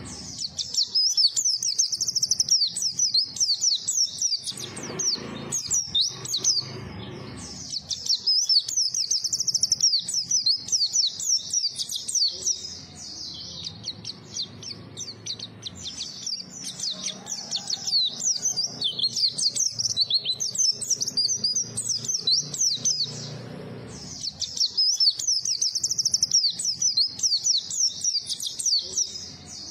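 White-eye (pleci) singing a fast, high twittering song in long unbroken runs, with shorter, more broken phrases through the middle.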